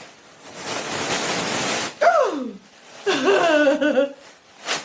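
About a second of hissing noise, then a woman's wordless exclamations, each sliding down in pitch, with a short sharp burst of breath-like noise near the end.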